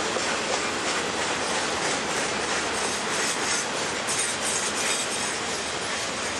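CSX freight train's boxcars rolling past at close range: a steady rumble and rattle of the cars, with the wheels clicking irregularly over rail joints.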